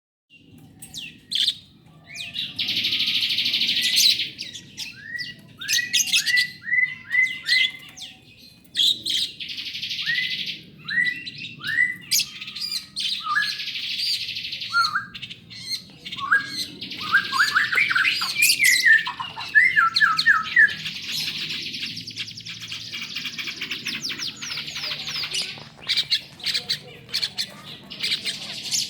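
Lovebird calling: long, rapid chattering trills (the 'ngekek' song prized by Indonesian lovebird keepers), broken up by runs of short downward-sliding chirps.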